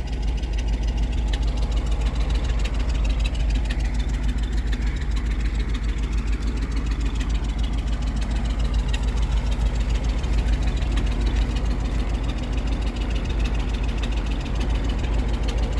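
1954 GMC 250 truck's later-model 292 straight-six idling steadily, an engine that runs fairly well but needs a carburetor.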